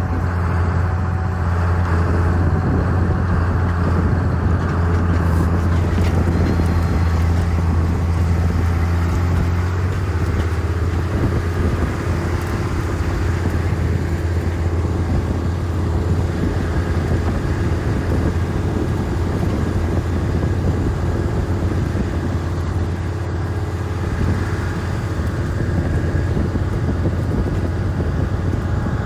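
A vehicle engine running steadily with a low drone. About ten seconds in its tone shifts and a higher steady hum joins it.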